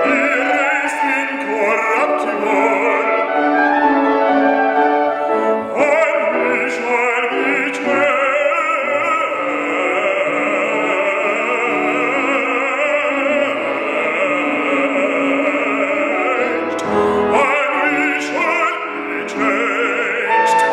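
Bass soloist singing a Baroque aria with a wavering vibrato on held notes, accompanied by piano.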